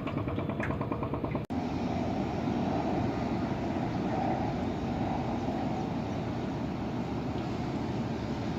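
Small boat's motor running steadily, with a brief cut-out about a second and a half in.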